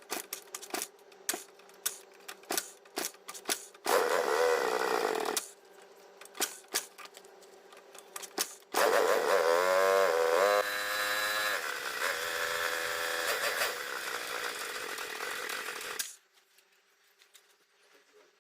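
Suzuki Satria FU motorcycle engine, a small single-cylinder four-stroke, revved: scattered clicks at first, a short blip about four seconds in, then a longer run from about nine seconds whose pitch rises and falls with the throttle, cutting off suddenly near the end.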